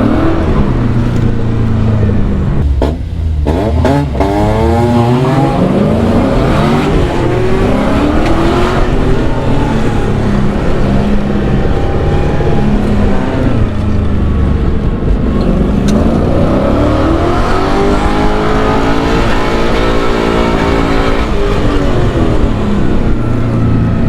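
LS V8 engine swapped into a BMW E36, revving up and down as it accelerates and lifts through an autocross course, its pitch rising and falling again and again. There is a brief drop in engine sound about three seconds in.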